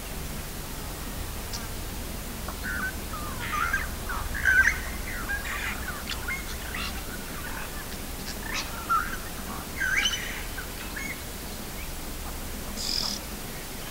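Wild birds chirping and calling in short, scattered notes, over a low steady hum.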